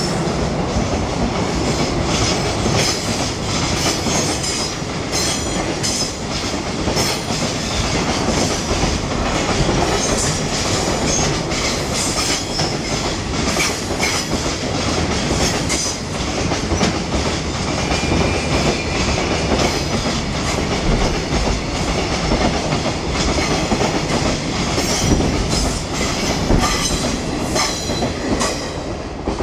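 Freight train of container wagons rolling past at speed: a steady rumble of steel wheels with rapid clickety-clack over the rail joints and a few brief high wheel squeals. It fades as the last wagon passes near the end.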